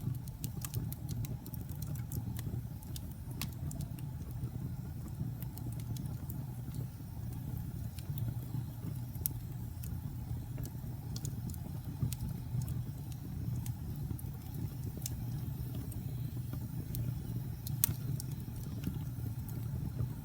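Wood fire crackling in a fireplace: scattered sharp pops and snaps at irregular moments over a steady low rumble of burning flames, with one louder pop near the end.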